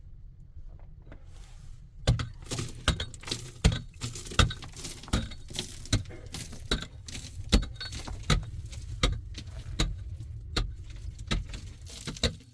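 Irregular clinks and knocks that start about two seconds in, over a steady low rumble.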